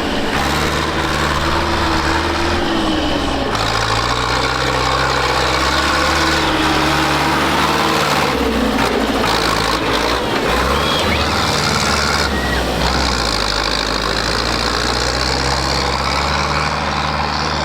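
Tractor engines running, with a steady low hum that shifts in pitch several times as the engines change speed.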